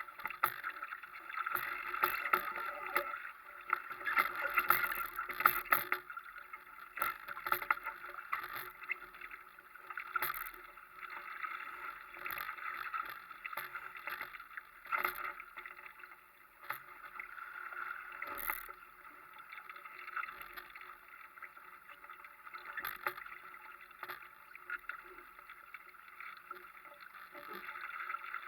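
Water rushing and splashing along a sailing dinghy's hull, swelling and easing, with scattered knocks and clicks from the boat.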